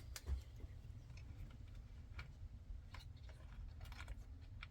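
Faint scattered clicks and light taps of hands fitting small plastic clips and plugs onto a steering wheel, over a low steady hum.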